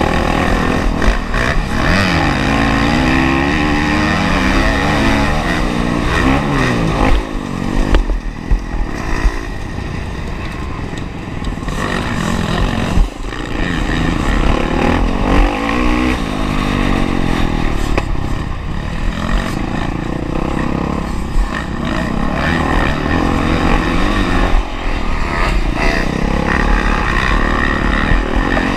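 Honda CRF450R's single-cylinder four-stroke engine at full race pace, its pitch rising and falling again and again as the throttle is opened and closed through the corners and gears. A few sharp knocks come near the middle.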